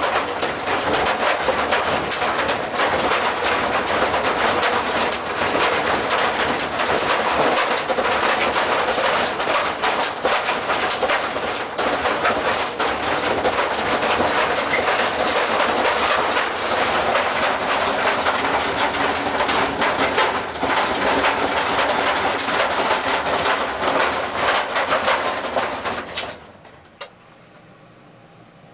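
Washing machine running hard with loud, constant rattling and clattering, as if shaking violently. It stops abruptly near the end.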